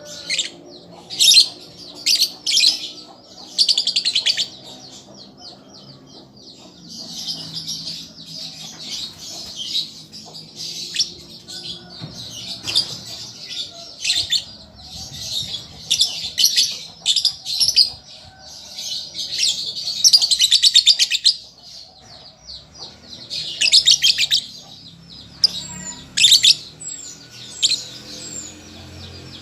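Young lovebird chattering: bursts of rapid, high, buzzy chirps and trills, some brief and some running on for a second or more, with short pauses between, the practice song of a juvenile bird learning to sing.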